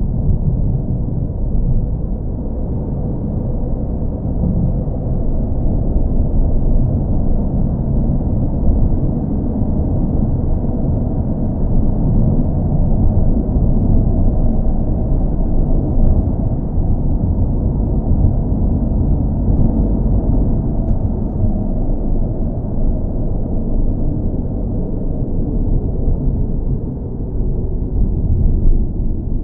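Steady, deep rumble of a car engine, with no rise or fall in pitch.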